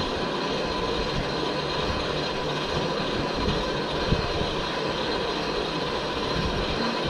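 Car running steadily under way: an even engine and road noise with a thin steady whine above it.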